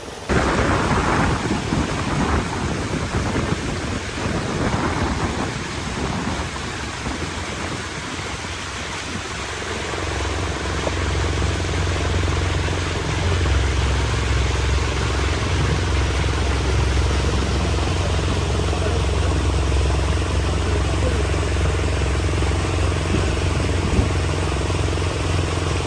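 An engine running with a steady low drone that sets in about ten seconds in, after a stretch of uneven rushing noise.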